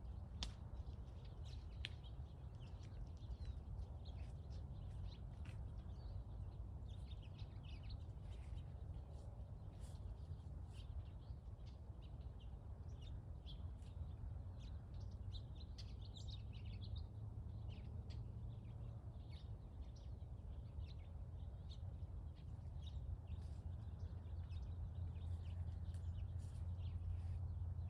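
Small birds chirping on and off over a steady low rumble that grows a little louder near the end.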